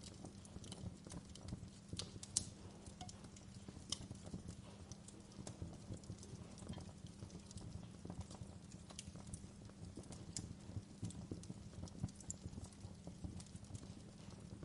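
Wood fire in a fireplace crackling, with irregular pops and snaps over a low, steady rumble of the flames.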